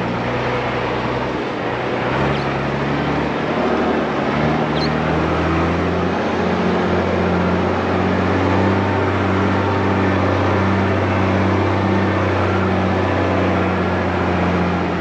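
Mercedes Unimog U1700L truck driving, its diesel engine running steadily under load with road and tyre noise. The engine note shifts a few times in the first seconds, then holds steady with a faint regular pulsing.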